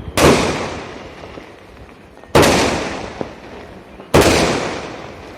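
Mercury 60-shot sky-shot fireworks cake firing: three loud bangs about two seconds apart, each fading away slowly, with small crackles in between.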